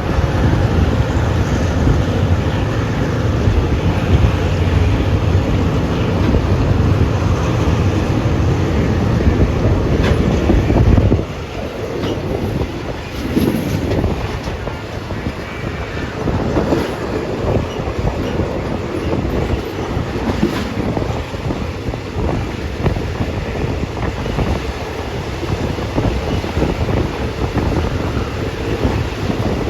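Steady rumble of a moving vehicle, with wind buffeting the microphone. The deep rumble drops off suddenly about eleven seconds in, and a rougher, quieter running noise carries on after it.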